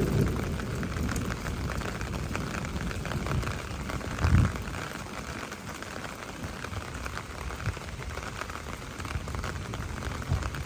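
Steady rain falling on surfaces, a fine pattering hiss. A low rumble fades out over the first second, and there is a single low thump about four seconds in.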